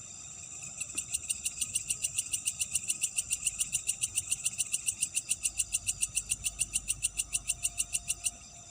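Night insects: a steady high chorus, with one insect's rapid pulsed call, about seven pulses a second, starting about a second in and stopping shortly before the end.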